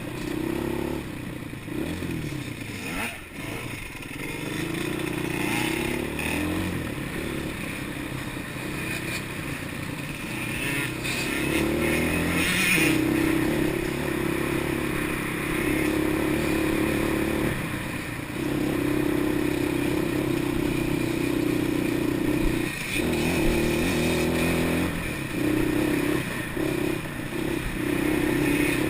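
Quad bike engine under way off-road. It revs up and eases off again and again, with short drops in pitch every few seconds.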